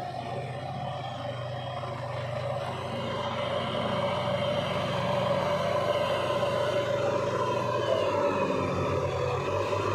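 A heavy diesel machine engine running steadily under load, growing louder as it goes.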